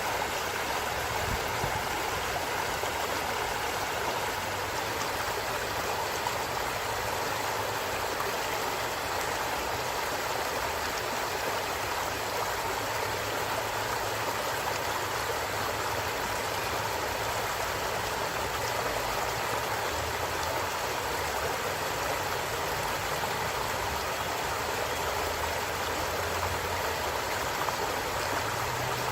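A stream of running water flowing steadily, an even, unbroken rush.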